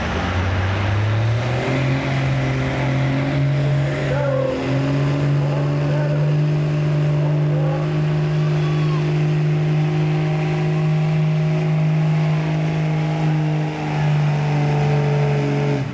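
Diesel pulling truck's engine revving up over the first two seconds, then held at steady high revs under load for the rest of the pull, dropping off sharply at the very end.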